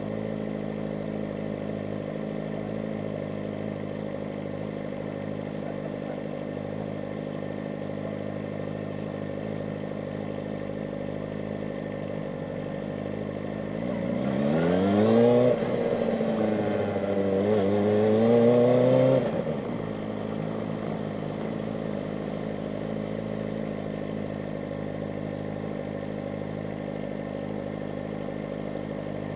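Kawasaki ZX-4RR's 399 cc inline-four engine running at a steady low note, then revved up about halfway through: the pitch climbs, dips briefly, climbs again, and drops back to the same steady note some five seconds later.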